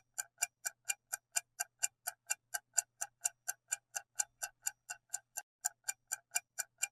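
Steady clock-style ticking sound effect, about four ticks a second, used as the quiz's countdown timer while the answer is awaited.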